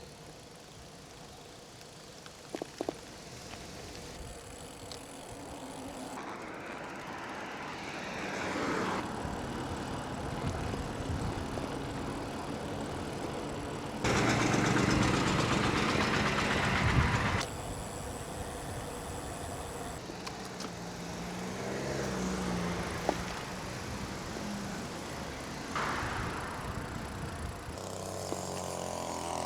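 Motor vehicle traffic in a string of short segments that switch abruptly: a vehicle passing, a loud stretch of noise in the middle, and an engine running.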